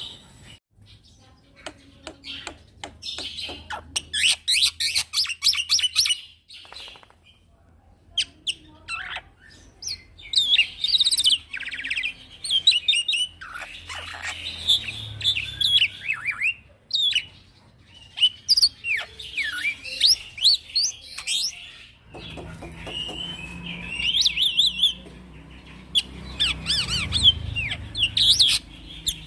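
A young male black-winged myna (jalak putih) singing a long, varied song of rapid chirps, sweeping whistles, clicks and harsh rattling notes in bursts, with brief pauses between phrases.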